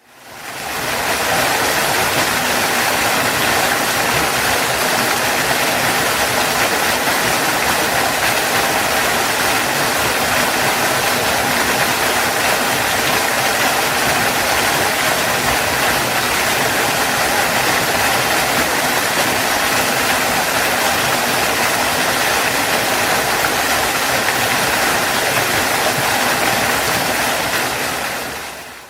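Waterfall: a steady rush of falling water that fades in over the first second and fades out near the end.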